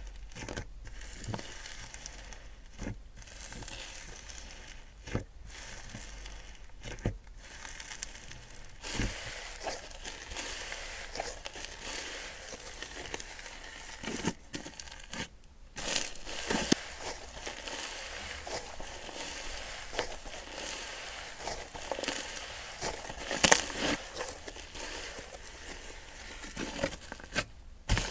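Slime being squeezed and pressed by hand, giving a dense crackling, crinkling sound with many small pops, broken by a few brief silent gaps. One sharp, louder pop comes about three-quarters of the way through.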